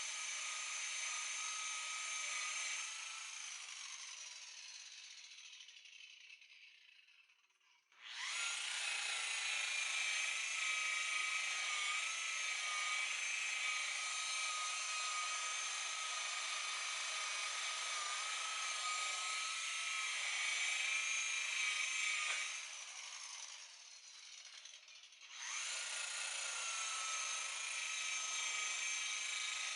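Electric polisher running at high speed with a steady whine while buffing oxidized boat gelcoat. It is let off twice and spins down, first slowly over several seconds and later briefly, then is switched straight back on each time.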